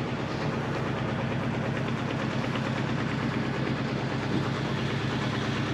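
Vehicle engine running steadily at a constant speed, a low even-pitched drone with no change in pitch.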